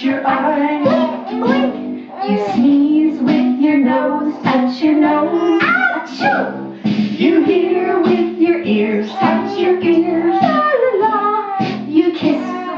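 A children's action song sung by a woman and children over a guitar accompaniment.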